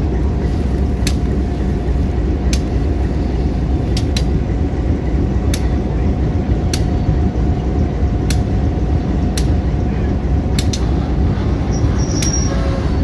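Slow-rolling freight cars with a steady low diesel locomotive rumble, the wheels clicking over rail joints about once every second or so. Faint thin squealing tones come in near the end.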